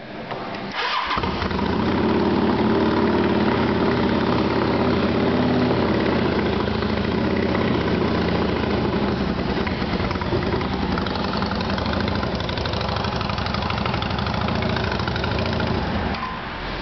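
2007 Yamaha V-Star 650's air-cooled V-twin started with a little choke: it cranks briefly, catches about a second in, and settles into a steady idle through its aftermarket Hard Krome exhaust.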